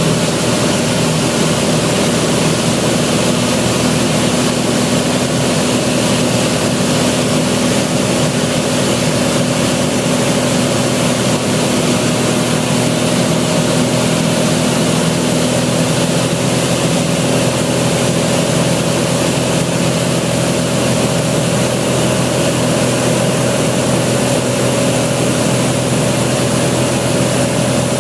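Cessna 182's piston engine and propeller running at a steady drone, unchanging in pitch and loudness, during its approach to land.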